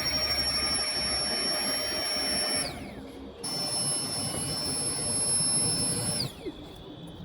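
A small electric motor, like a power tool's, running with a high-pitched whine. About two and a half seconds in it winds down with a falling whine, starts again half a second later, and winds down again near the end.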